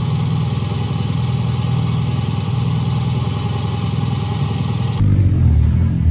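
A motor vehicle engine running steadily, with no revving; about five seconds in the sound changes abruptly to a heavier, deeper rumble.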